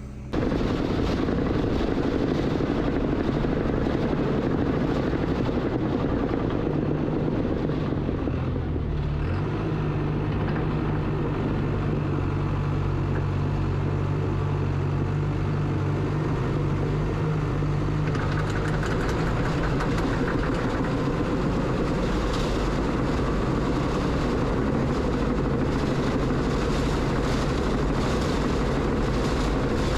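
Bulldozer's diesel engine running steadily while it works, with a stronger low engine note from about seven seconds in until about nineteen seconds in.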